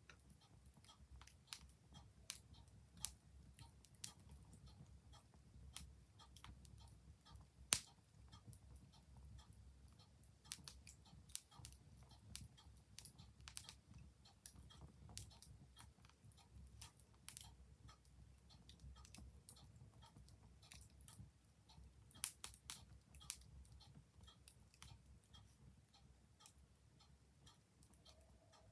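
Wood fire crackling, with irregular sharp pops and snaps over a low rumble; the loudest pop comes about 8 seconds in and a quick run of pops about 22 seconds in.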